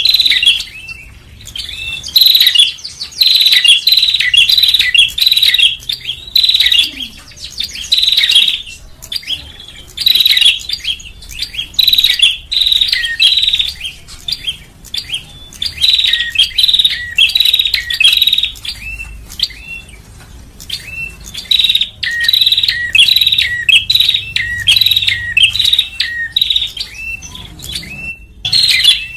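Prenjak (prinia) calling from a bird-luring recording: loud bouts of rapid, sharp chirps lasting a second or two each, repeating with short pauses.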